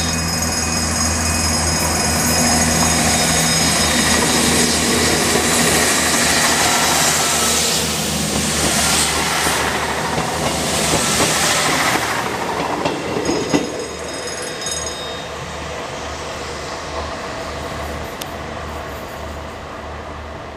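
Class 159 diesel multiple unit passing at speed over a level crossing, its underfloor diesel engines and wheels on the rails loud for about twelve seconds, then fading away. A mechanical crossing bell rings on, heard most clearly at the start and as the train fades.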